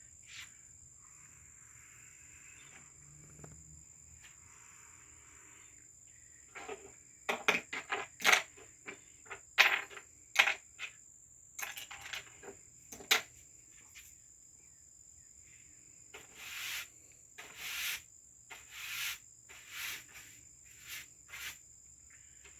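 Crickets trilling steadily at a high pitch throughout. About a third of the way in comes a quick run of sharp clicks and knocks, and near the end half a dozen short scraping strokes about a second apart.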